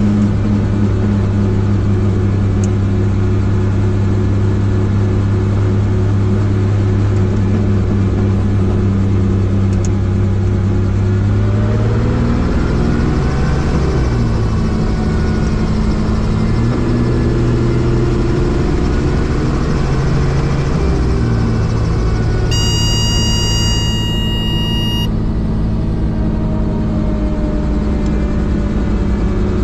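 Helicopter in flight: the steady, loud drone of rotor and engine, its pitch shifting and wavering for several seconds midway. Near the end a steady electronic tone sounds for about two seconds over it.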